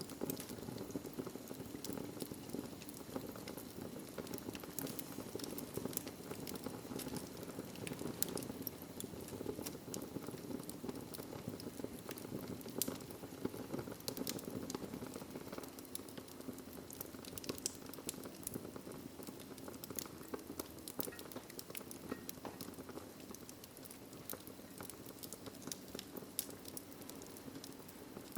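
Wood fire in a fireplace crackling, with frequent sharp pops and snaps over a steady low rush of the flames.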